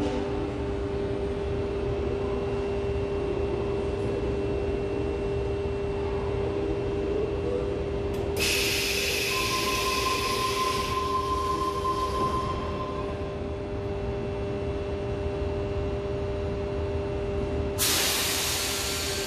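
Sydney Trains electric train standing at the platform with its doors open, its equipment giving a steady hum over a low rumble. About eight seconds in a loud burst of air hiss lasts three or four seconds, with a steady beep-like tone alongside it. A second loud hiss near the end comes as the doors close.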